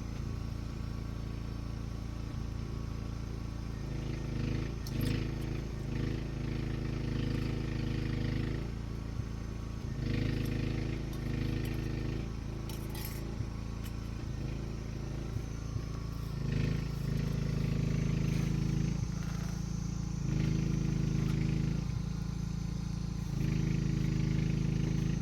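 An engine running steadily, its level swelling and easing every few seconds, with scattered light metallic clinks.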